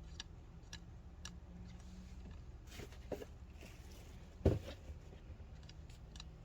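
Plastic stir stick scraping and tapping around the inside of a can of thick tank-liner coating, clicking against the can about twice a second, with one louder thump about four and a half seconds in.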